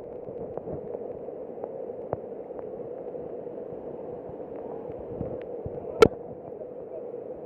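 Heavy rain falling with water noise, a steady hiss throughout, with scattered faint ticks and one sharp knock about six seconds in.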